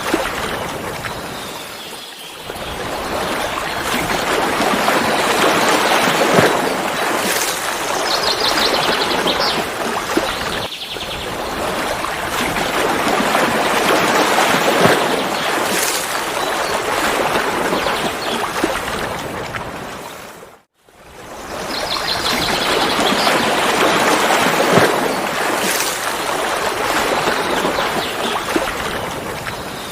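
Mountain waterfall: rushing, splashing water in a steady noise that swells and eases every few seconds, with a brief sudden dropout about two-thirds of the way through.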